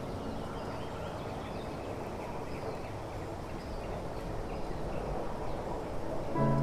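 Steady hiss of rain, with faint bird chirps over it and no music.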